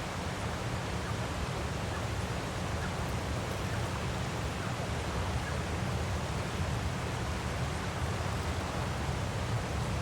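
Waterfall rushing steadily: an even, unchanging hiss with a strong low rumble.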